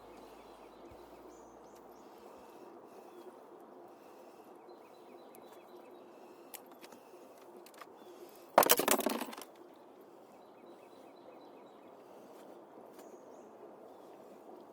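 Steady outdoor background noise with faint bird chirps, broken a little past halfway by one loud clattering knock that lasts about a second.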